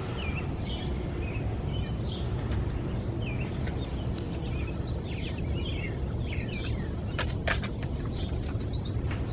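Outdoor birds chirping and twittering in many short calls, over a steady low background rumble. A few sharp clicks or rustles come about seven seconds in.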